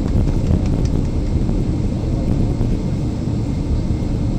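Steady, loud rumble of a Boeing 777-300ER, its engines and airframe heard from inside the passenger cabin.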